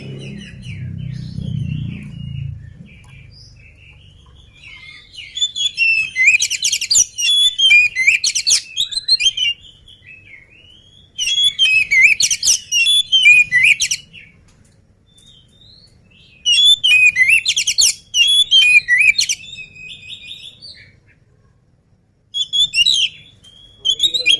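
Oriental magpie-robin (kacer) singing loud, fast, varied phrases of chirps and whistles in four bursts of a few seconds each, with short pauses between. A low rumble sounds in the first couple of seconds.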